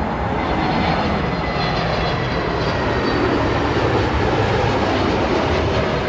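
Jet airliner's engines as it passes close on arrival, a loud steady rush of noise with a faint high fan whine.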